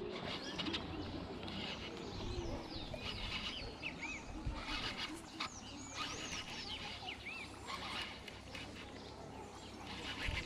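Birds chirping over and over, short rising and falling calls, over a steady low hum and outdoor rustle.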